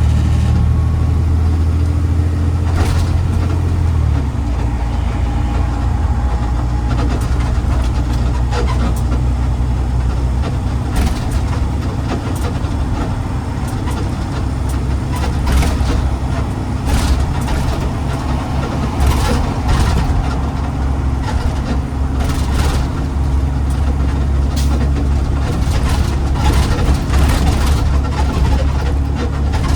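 Garbage truck engine running with a heavy low hum that turns rougher about four seconds in as it gets under way, with frequent clanks and rattles throughout.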